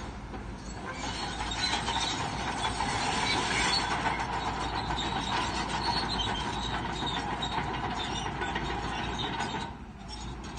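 Shantui crawler bulldozer working: engine running under steel tracks that clank and squeal steadily, easing off briefly near the end.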